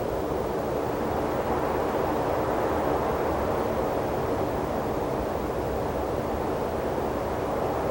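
Steady rushing wind in open desert terrain, a continuous noise without distinct gusts or other events.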